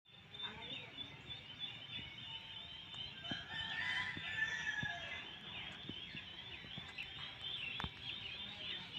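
Many small birds chirping continuously, lots of short quick chirps overlapping, with one longer drawn-out call around the middle.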